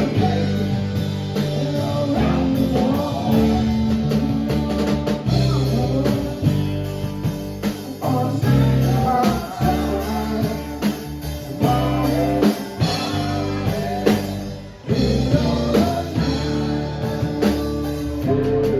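Rock band playing live with no vocal: a lead guitar bending notes over bass and a drum kit.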